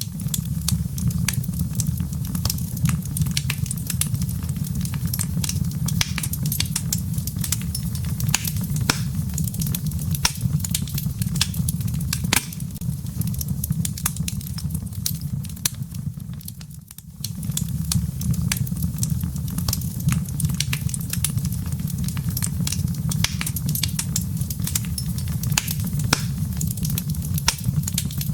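Wood fire crackling in a fireplace: many sharp pops and snaps over a steady low rumble of burning. The rumble briefly dips away about seventeen seconds in, then returns.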